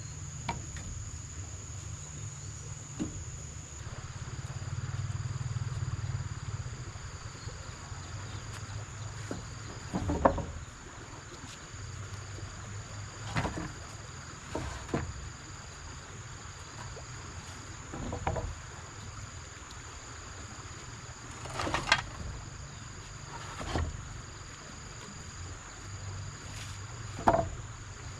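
Insects drone in a steady high-pitched buzz, with a second insect calling in short repeated runs, over a low rumble. About seven scattered knocks or thuds stand out above them.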